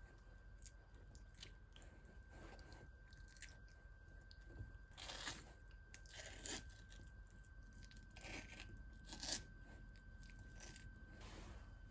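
Knife cutting raw meat: faint, scattered cuts and scrapes, a few louder ones in the second half. A faint steady high tone runs underneath and stops near the end.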